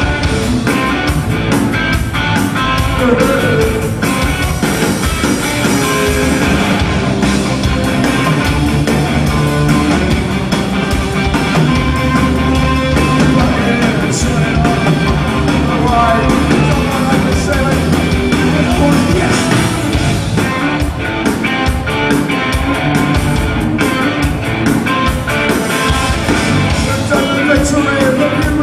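Punk band playing live: electric guitar, bass and drums at a steady beat, with singing.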